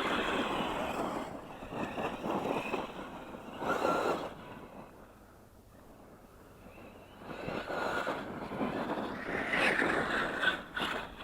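ARRMA radio-controlled monster trucks with brushless electric motors driving on dirt, in several bursts of throttle: a motor whine over the noise of tyres and gravel, with a quieter gap about halfway through.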